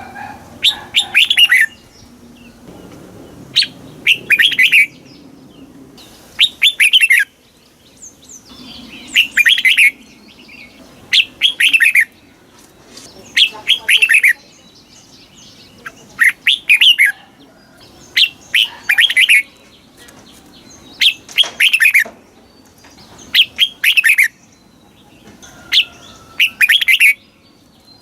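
Red-whiskered bulbul singing: short, loud, bubbly song phrases of quick sweeping notes, repeated about every two seconds.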